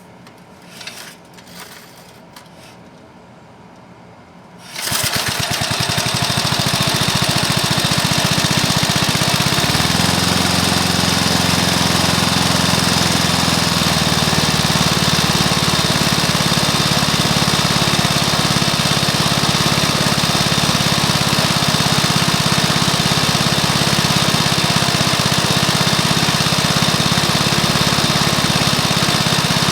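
Single-cylinder Briggs & Stratton lawnmower engine, freshly rebuilt with new piston, rings and valves, starts abruptly about five seconds in after a few faint taps, then runs steadily. Its pitch shifts for a few seconds midway before settling back to an even run.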